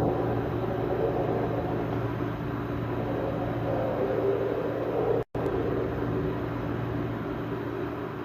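A steady low rumbling drone with a constant hum under a noisy wash, broken by a brief dropout about five seconds in.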